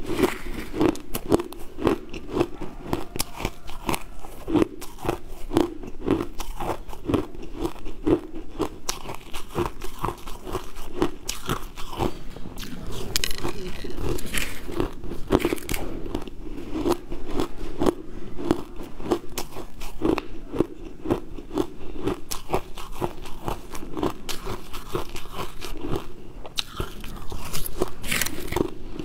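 Close-miked chewing of a crunchy, granular purple sweet: dense crackling crunches throughout, with a chewing rhythm of about two bites a second.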